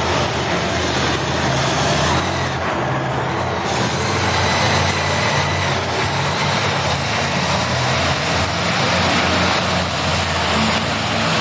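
Monster truck engine running, loud and steady.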